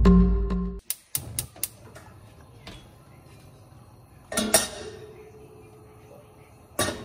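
Music stops about a second in, followed by a quick run of sharp metallic clinks. Two louder clattering knocks come later, as of hard objects such as utensils being handled or set down.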